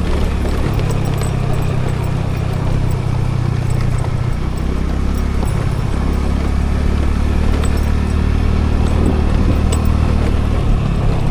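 Scooter engine running steadily under road and wind noise; its low note shifts in steps a few times, about half a second in, around four and a half seconds and near the end.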